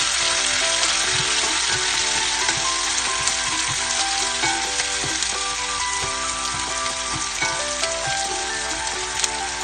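Chopped onion and garlic sizzling in hot oil in a nonstick pan, stirred with a wooden spatula that knocks and scrapes against the pan now and then.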